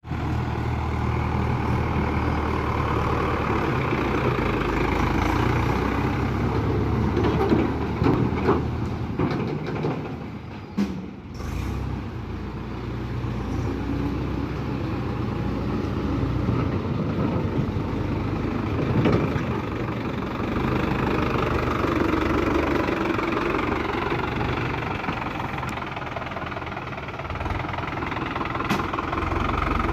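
Tractor diesel engine running under load, its pitch rising and falling a little, with a brief drop near the middle and a few knocks.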